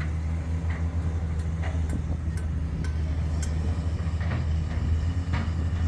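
Heavy machinery engine running steadily at constant speed, with scattered light metallic clinks and knocks.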